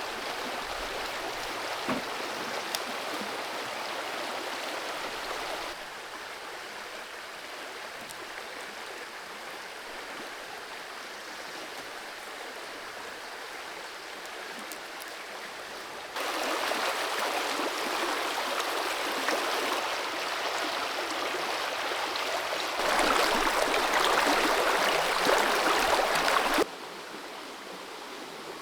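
Forest creek water rushing and gurgling, a steady flow whose loudness steps abruptly down about six seconds in, up near the middle, louder again toward the end, then drops back.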